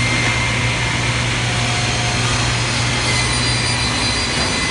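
Automatic panel saw running steadily, a continuous machine noise with a low hum that drops out near the end.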